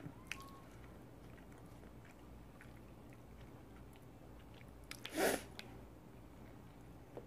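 Faint close-up chewing and small mouth clicks of someone eating soft, sauce-soaked fried pieces. One short, louder noise comes about five seconds in.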